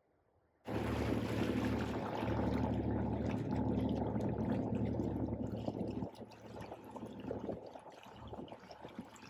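A boat's engine running with water rushing and splashing along the hull. It starts abruptly under a second in and drops to a lower level about six seconds in.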